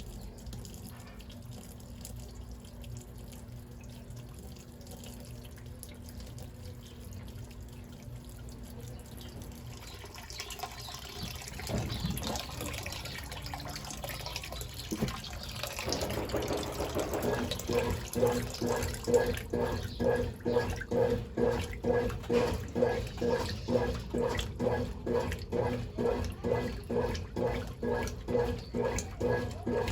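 Brastemp Ative 11 kg washing machine letting water in, the rush growing louder about a third of the way through. Just past halfway its agitator starts working back and forth, giving a regular sloshing with a motor whine on each stroke, about two strokes a second.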